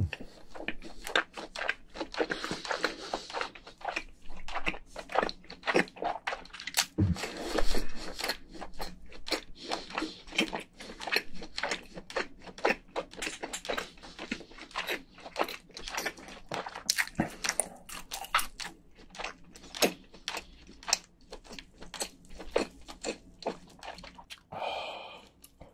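Close-miked chewing of soft cooked crayfish meat: a steady run of wet mouth clicks and lip smacks, several a second.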